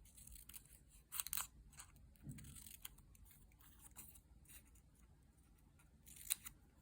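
Scissors cutting paper: a few faint, irregular snips, the loudest pair about a second in.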